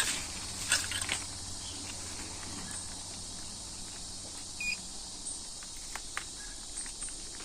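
Steady high-pitched chorus of insects, with a few light clicks and taps near the start.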